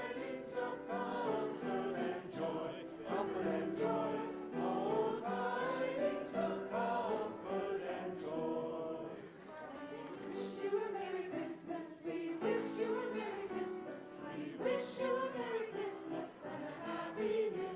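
Choir singing a Christmas hymn or carol as a soundtrack.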